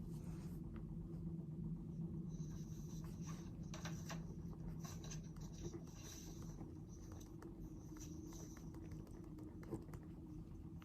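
Pen or pencil scratching on paper in short, repeated writing strokes, over a steady low hum.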